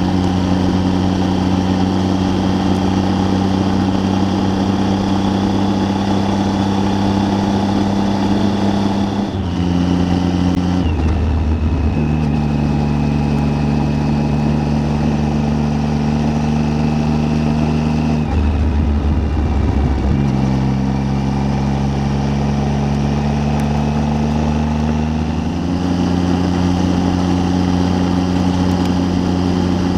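Triumph Tiger 800's three-cylinder engine running at road speed, its pitch stepping down about nine and eleven seconds in, dipping again around eighteen seconds, then stepping back up near twenty-five seconds, with a steady rush of wind noise underneath.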